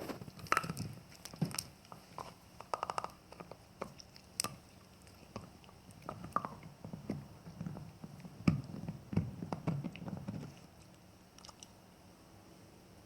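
Jack Russell terrier gnawing on a bone, with irregular crunches and clicks of teeth on bone that thin out near the end.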